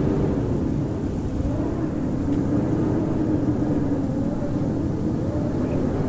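Howling blizzard wind: a steady low rush with a wavering, slightly rising and falling howl.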